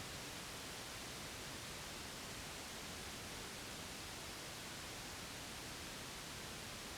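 Steady white noise: an even, unbroken hiss across all pitches, strongest in the upper range, played as a baby sleep aid.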